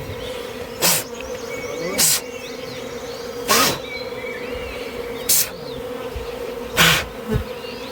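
A swarm of wild honeybees buzzing in a steady hum. Five short, sharp noisy bursts cut across it, about one every second and a half.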